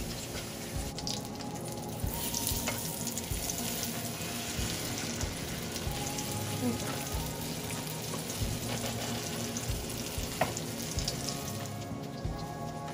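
Eggplant omelette sizzling and spattering in hot oil in a nonstick frying pan, with a few short scrapes and taps of a plastic spatula against the pan as it is turned.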